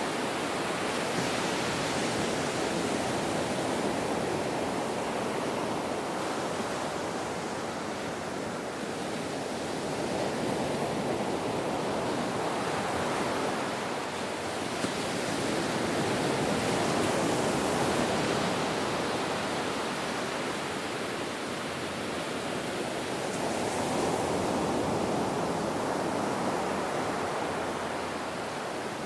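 Ocean surf: a continuous wash of breaking waves that slowly swells and eases every several seconds.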